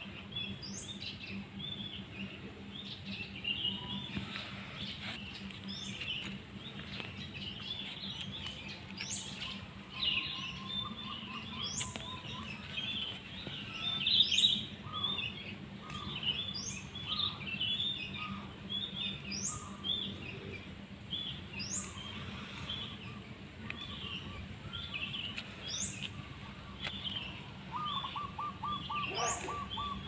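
Several songbirds chirping and chattering, with one bird repeating a short high rising call every two to three seconds and a rapid trill near the end.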